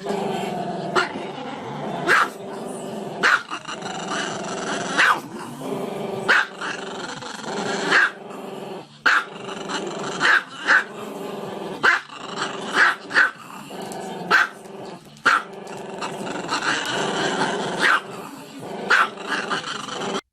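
A dog growling steadily, with a sharp bark breaking out roughly every second or so.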